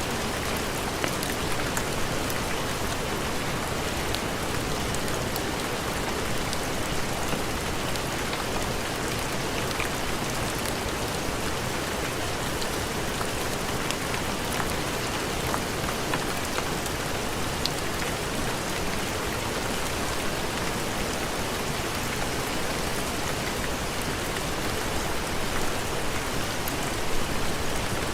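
Steady heavy rain, an even hiss with scattered ticks of single drops.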